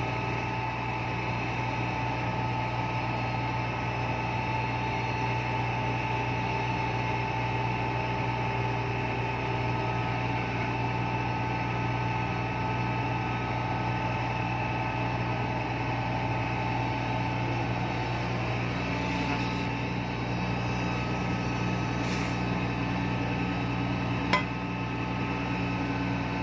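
Epiroc DM45 blasthole drill rig running with a steady engine and hydraulic drone, its pitch shifting slightly about two-thirds of the way through. A single sharp metallic click comes near the end.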